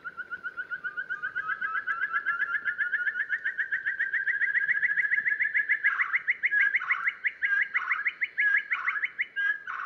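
Ferruginous partridge calling: a long, rapid series of short notes, rising gradually in pitch and getting louder. From about six seconds in, lower sweeping notes break in roughly once a second.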